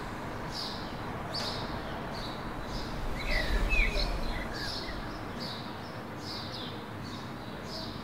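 Small birds chirping over and over, about two short high chirps a second, with a louder, lower bird call and a brief low rumble about three and a half seconds in.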